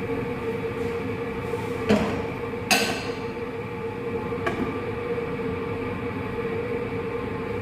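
Steady mechanical hum and rumble of kitchen cooking equipment on a running stove, with a constant droning tone. Two sharp clinks cut through it about two and three seconds in.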